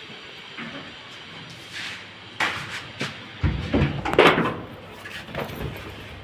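A few sharp clicks, then a heavy thud about three and a half seconds in, followed by a second or so of clattering knocks, like a door or equipment being handled.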